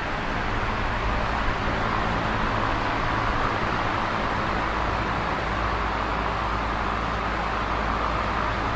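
Electric fan running steadily: an even whir of moving air with a low, constant hum underneath.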